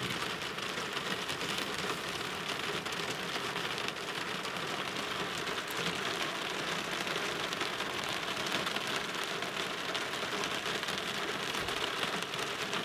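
Steady rain falling on a car's roof and windows, heard from inside the cabin: a dense, even hiss of countless small drop hits.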